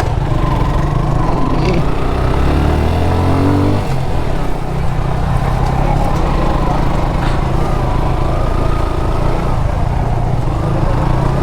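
Motorcycle engines labouring up a steep hill climb. One engine revs up between about two and four seconds in, then drops back.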